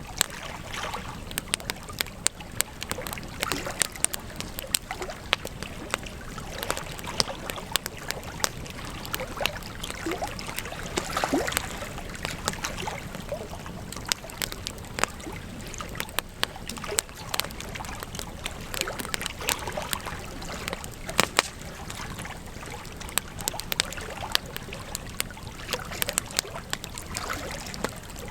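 Wood campfire burning, crackling steadily, with frequent sharp, irregular pops and snaps over a soft hiss.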